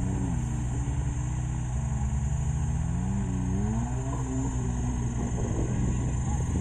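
Off-road 4x4 vehicle's engine revving up and down several times, its pitch rising and falling over a steady low engine drone.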